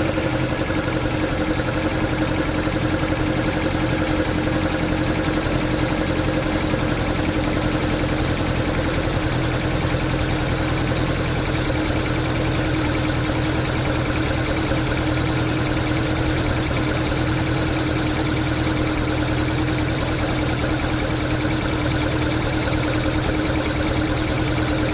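Toyota AE86's swapped AE101 4A-GE twenty-valve engine idling steadily, settled at an even pitch.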